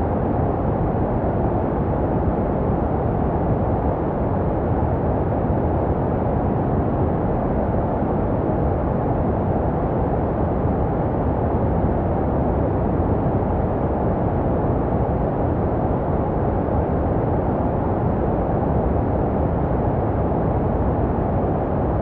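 Steady, deep white noise for soothing a baby, muffled with little hiss at the top, made to resemble the sound a baby hears in the womb. It runs without change or break.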